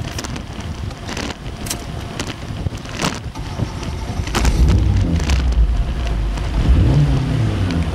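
Wind buffeting the microphone while riding, with scattered clicks and knocks. From about halfway through, a louder low rumble joins it.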